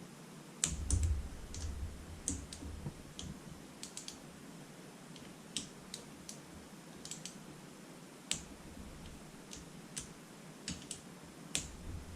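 Irregular sharp metallic clicks of a wrench working the small valve cover bolts as they are tightened down, with a few low handling bumps, loudest about a second in and again about eight seconds in.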